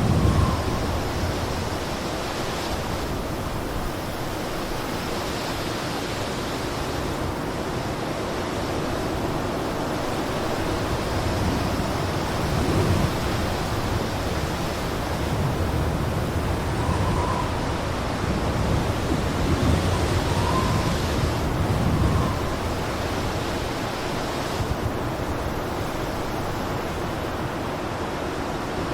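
Blizzard wind blowing in a steady rush, with gusts swelling now and then and a few brief faint whistles.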